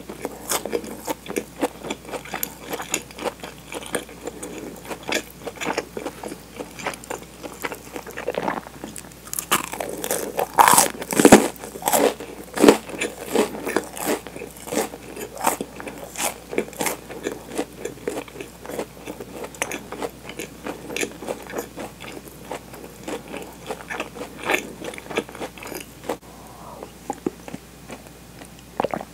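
Close-miked chewing of crunchy toasted sandwich bread: irregular crisp crunches and wet mouth clicks, loudest for a few seconds about a third of the way in.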